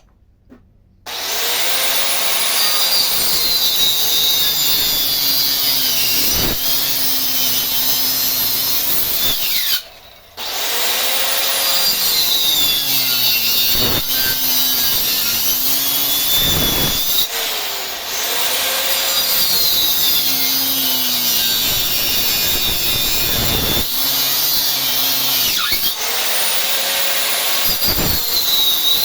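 A power tool cutting into wood, running steadily; it stops briefly about ten seconds in and starts again.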